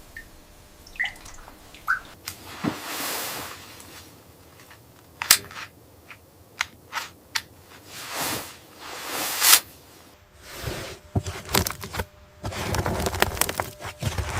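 Irregular sharp knocks and cracks mixed with short rustling scrapes, as of wood and brush being handled and worked by hand.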